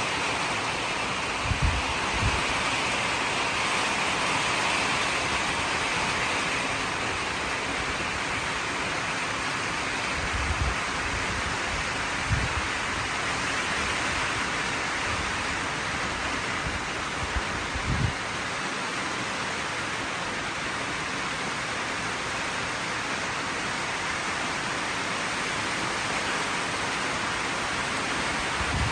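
Heavy rain falling steadily in wind, an even hiss throughout. A few brief low thumps stand out, about a second and a half in, twice around ten to twelve seconds, and once near eighteen seconds.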